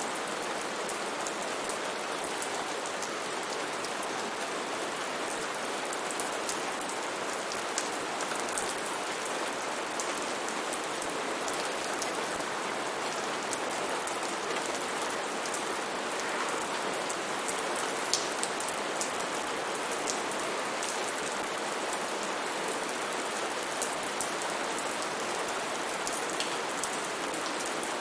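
Steady heavy rain falling on foliage, a dense even hiss with many separate drops ticking through it.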